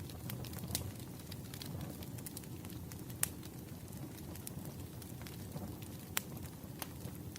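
Wood fire burning: a steady low rumble and hiss with scattered sharp crackles and pops, the loudest pops about three seconds in and again near six seconds.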